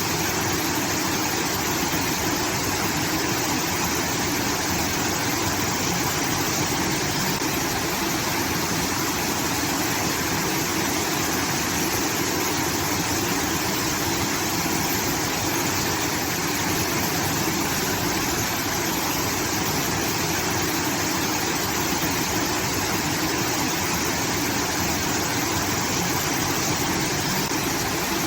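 Water rushing steadily out of a rice-field irrigation outlet, a constant waterfall-like sound.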